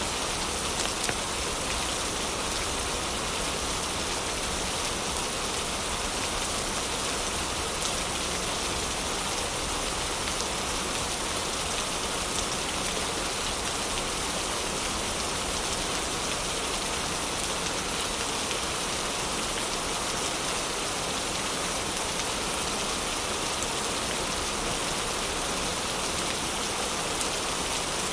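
Heavy rain falling steadily in an even hiss, with a few faint sharp ticks here and there.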